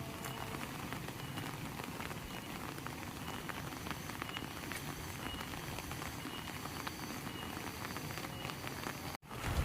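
Heavy rain falling: a steady hiss of rain with a patter of individual drops. The sound cuts out abruptly for a moment near the end.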